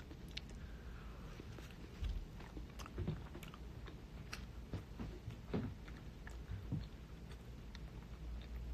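Faint chewing and mouth sounds of a person eating, with scattered small clicks and soft knocks.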